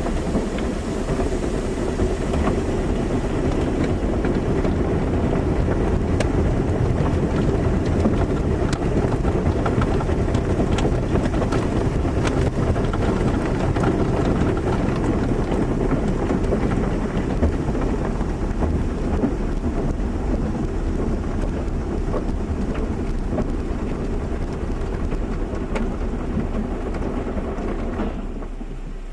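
Automatic car wash running: a steady mix of spraying water and machine rumble, peppered with small sharp patters. About a second before the end it drops away to a quieter steady hum.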